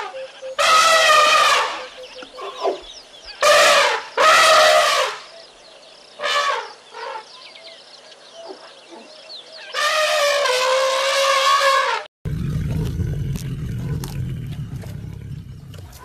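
An African elephant trumpets five times, in loud pitched calls of up to two seconds each, the last falling slightly in pitch. About 12 s in, the sound cuts to a tiger's low, steady growl.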